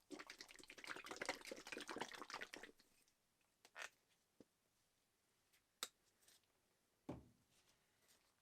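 Workshop handling noises: a dense run of rapid scratching and clicking for about two and a half seconds, then a few scattered clicks and one low knock near the end.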